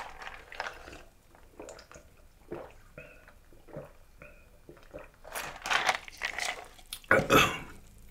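Close-miked chewing and biting of fried food, a run of short crunchy mouth sounds. The loudest come about five to six seconds in and again about seven seconds in.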